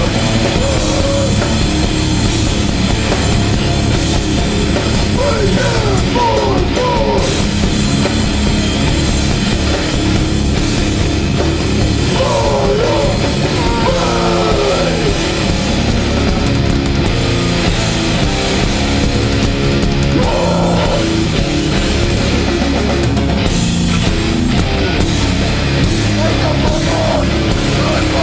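Hardcore band playing live and loud: distorted guitars, bass and drum kit running continuously, with notes sliding in pitch a few times.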